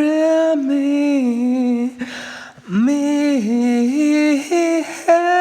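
A singer's wordless, unaccompanied vocal melody: long held notes that glide between pitches. A breath is taken about two seconds in.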